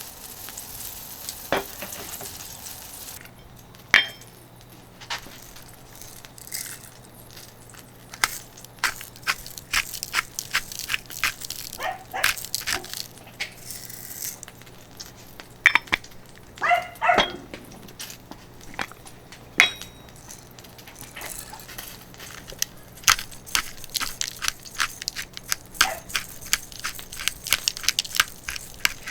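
Skirt steak sizzling on a thick iron griddle, the hiss dropping away about three seconds in, followed by many sharp, irregular clicks and crackles, with a brief wavering cry near the middle.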